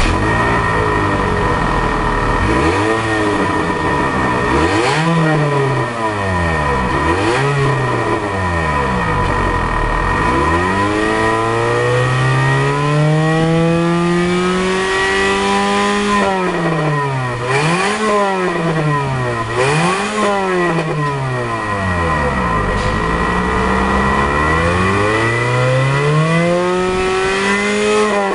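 Exhaust of a Toyota Harrier 2.0 4WD (ZSU65W) through a Kakimoto KRnoble Ellisse aftermarket muffler, its 2.0-litre four-cylinder engine idling and then revved over and over. There are quick blips and a couple of longer revs that hold high briefly before falling back.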